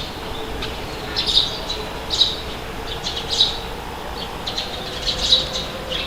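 Birds chirping in short calls about once a second, over a steady outdoor background hiss.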